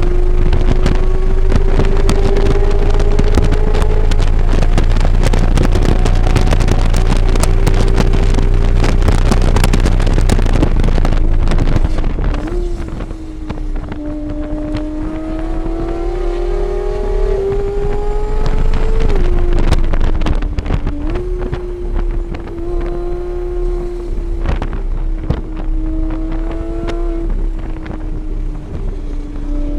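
A vehicle's engine lapping a race circuit at speed, heard onboard. For the first twelve seconds it runs flat out under heavy wind rush on the microphone. Then it is quieter, its pitch rising and falling, with a sudden drop a little before twenty seconds and a jump back up about two seconds later.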